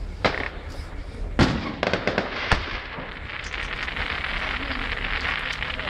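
Fireworks display: a few sharp bangs of bursting shells in the first few seconds, with scattered small cracks between them. After that comes a dense, continuous crackling.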